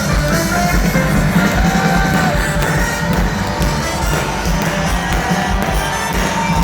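Live rock music at concert volume: an amplified band with electric guitar, heard as an audience recording.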